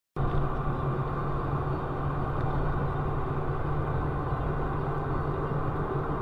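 Steady car engine and road noise with a low hum, as picked up by a dashcam while driving.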